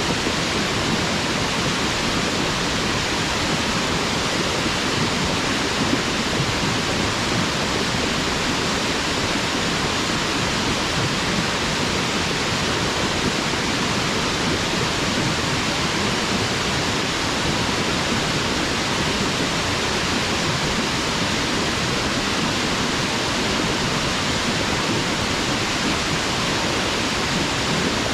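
A waterfall: water falling and splashing in a steady, unbroken rush.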